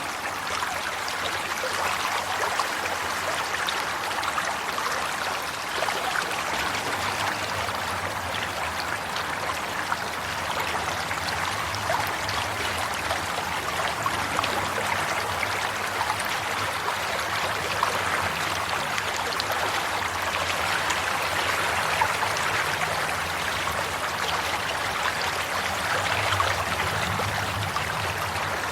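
Flowing stream water running steadily, a continuous rushing babble with fine trickling detail.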